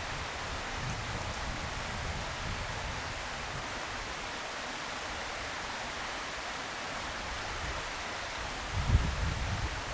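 Steady outdoor background noise, an even hiss, with a brief low rumble about nine seconds in.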